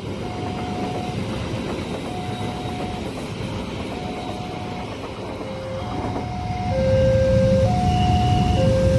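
Railway level-crossing warning alarm: an electronic tone repeating about once every two seconds, with a second, lower tone alternating with it from about halfway through. A low rumble grows louder near the end.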